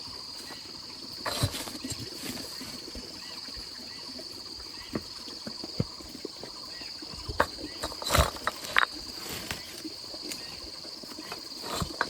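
Insects droning steadily at one high pitch, with scattered knocks and taps; the loudest come as a short cluster about eight seconds in.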